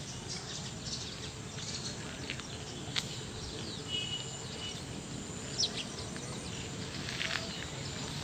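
Outdoor ambience: a steady background hiss with scattered short bird chirps and a few sharp clicks.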